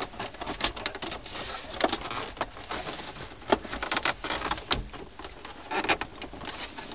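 Wiring and plastic trim being handled: irregular clicks, taps and rustling as cable is pulled through, with one sharper click about four and a half seconds in.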